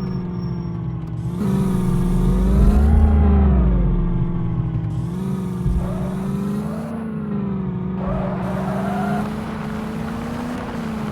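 Tractor engine running hard under load, its pitch dipping and rising a little over and over, with a heavy low rumble that swells about two to four seconds in.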